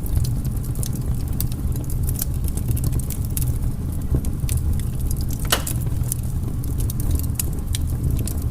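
Firewood burning: a steady low rumble of the fire with irregular crackles and snaps, and one louder pop about five and a half seconds in.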